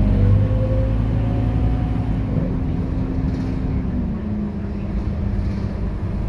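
Scania K230UB bus's diesel engine running under way with a steady low hum, its note stepping down in pitch about four seconds in.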